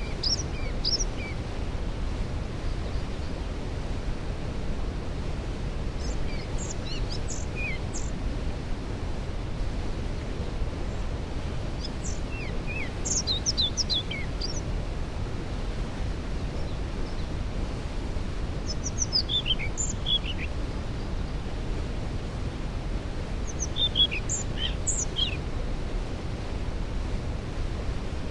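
Waterfall's steady roar. Over it, a songbird sings short phrases of high, falling notes about every six seconds.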